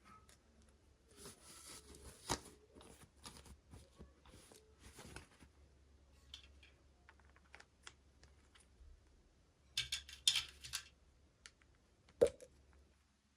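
Hands handling toy packaging: scattered small plastic clicks and short bursts of crinkling, busiest near the start and about ten seconds in, with one sharp tap about twelve seconds in.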